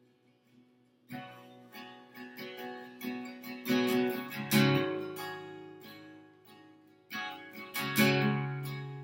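Acoustic guitar being strummed, with chords that ring out and fade between strums; it comes in about a second in after a fading note, with the loudest strums near the middle and again near the end.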